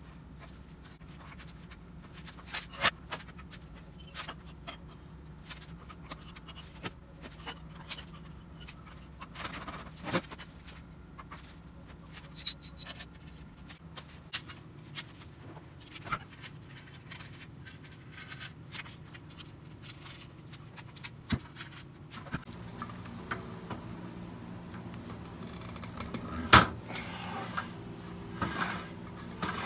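Scattered clicks, taps and clinks of tools and metal parts being handled, over a low steady hum. About two-thirds in, a steadier pitched hum joins, and a sharp knock stands out near the end.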